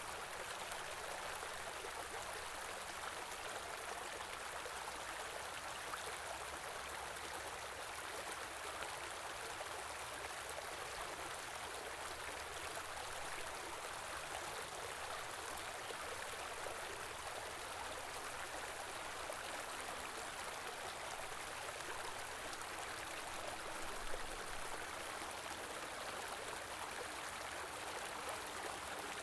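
A small river or stream flowing steadily, an even rushing of water, with one brief low knock near the end.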